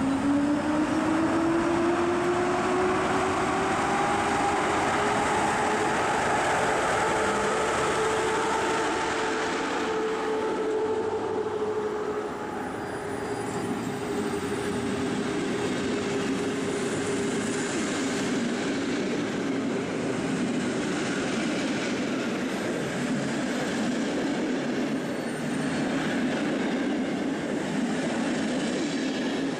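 Passenger train running through a station platform: steady rumbling running noise with a whine that rises in pitch over the first eight seconds or so, then holds steady and slowly sinks.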